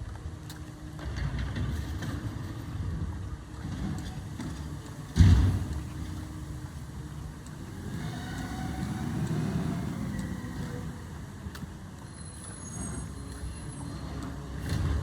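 Garbage truck engine running with a low rumble that swells and eases partway through, and one loud thump about five seconds in.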